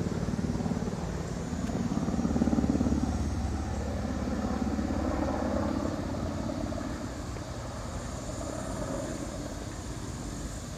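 Helicopter flying overhead, a low rapid pulsing that grows louder about two seconds in and then slowly fades as it moves away.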